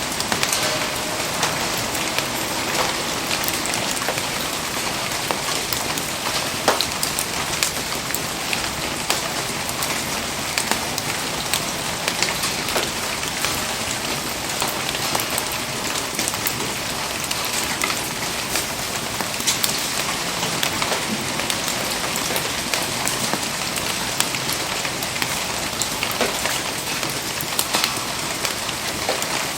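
Steady rain falling on surfaces, an even hiss dotted with many small sharp ticks of drops throughout.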